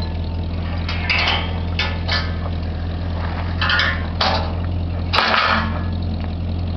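Truck engine idling steadily, with several short bursts of scraping noise over it about one to five seconds in.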